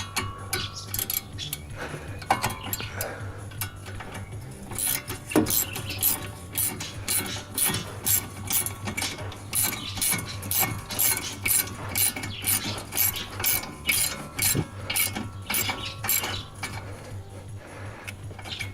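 Hand ratchet wrench clicking in an even rhythm, about two to three clicks a second, for roughly ten seconds in the middle, as a bolt is worked during a brake pad and disc change.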